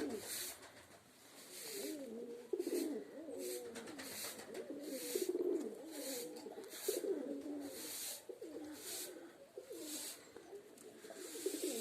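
Domestic pigeons cooing, several overlapping rolling coos one after another, with short soft hissing sounds every second or so.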